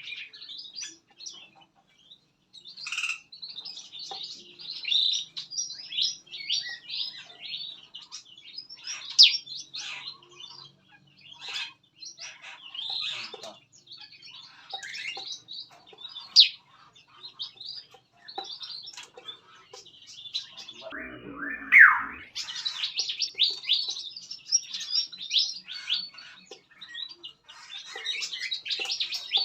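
A mixed flock of small aviary songbirds chirping and calling over one another, with quick high chirps throughout. About two-thirds of the way through, one louder call slides down in pitch.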